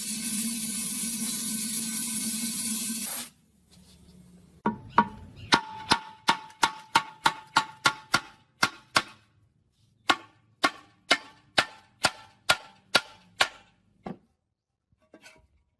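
A machine running with a steady hiss and hum cuts off suddenly about three seconds in. Then comes a run of sharp strikes, about two to three a second, each ringing briefly, with a short pause partway through.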